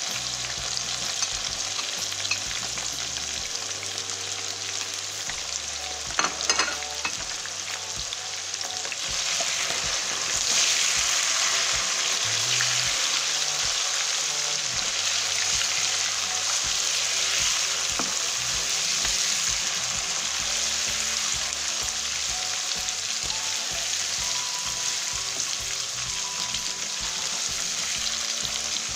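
Chicken pieces frying in hot oil in a nonstick karahi, sizzling steadily while a slotted spatula stirs and turns them. There are a few knocks about six seconds in, and the sizzle grows louder around ten seconds in.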